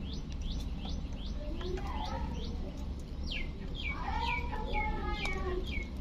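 Bird chirping: a quick series of about six short chirps, each falling in pitch, in the second half, over a softer wavering call, with faint ticks throughout.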